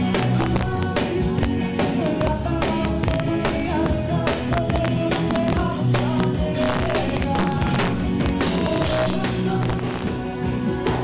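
Live band playing a song through the stage PA during a sound check, with drums hitting steadily and guitar.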